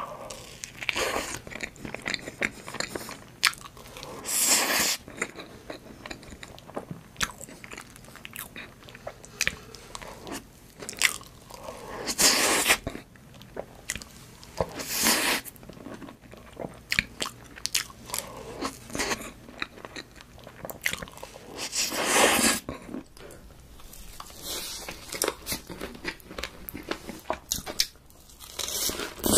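Close-miked eating sounds from a mouthful of whipped-cream cake: chewing, sticky lip smacks and clicks, with several louder stretches of wet mouth noise. Just before the end comes a bite into a fried cutlet.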